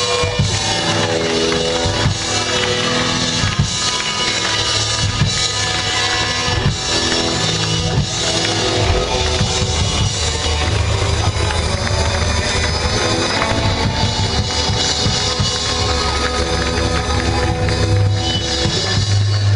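Rockabilly band playing live, with a drum kit keeping the beat.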